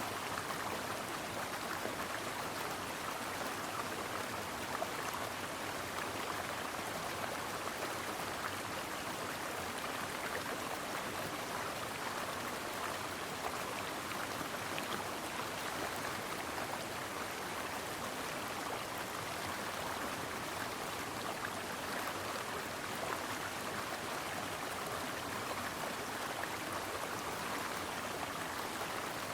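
A stream of water flowing steadily over rocks, a constant rushing and babbling with small splashes.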